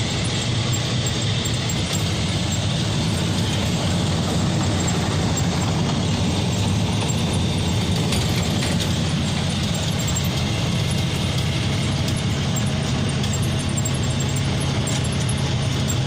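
Steady vehicle running noise, engine hum with an even mechanical rattle, holding at a constant level.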